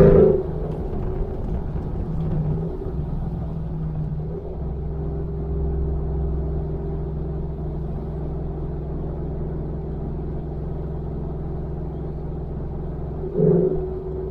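Ford F-150 with a Borla ATAK aftermarket exhaust cruising at a steady pace, giving a steady low exhaust drone that deepens a little about four seconds in. Near the end the engine briefly swells louder, then settles back to cruise.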